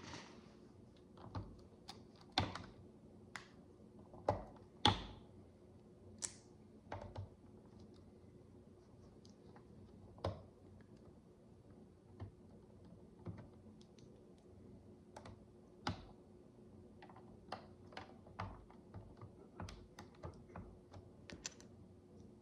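Miniature plastic building bricks being handled and pressed together: scattered small clicks and taps at irregular intervals, coming more often in the last few seconds, over a faint steady hum.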